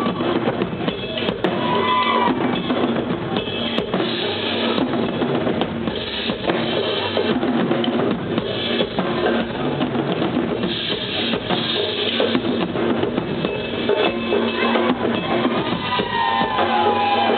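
Live band playing, with a drum kit carrying a steady beat under sustained instrument tones, recorded from the audience in a theatre.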